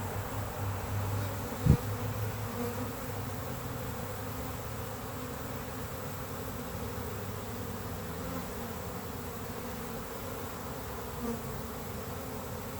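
A swarm of honey bees buzzing steadily at the entrance of a hive box, with a single sharp thump about two seconds in.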